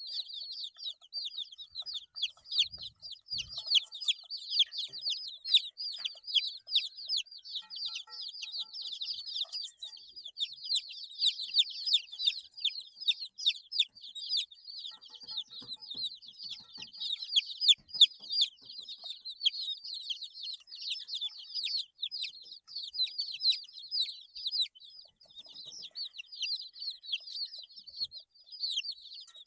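A group of 8-day-old baby chicks peeping continuously, many short high cheeps overlapping, each falling slightly in pitch.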